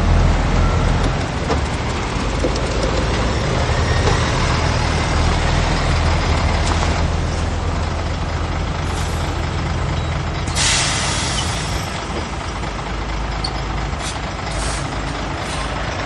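Heavy diesel earthmoving engines running steadily with a low drone. About ten seconds in comes a loud hiss of air lasting about a second, and a few shorter hisses follow near the end.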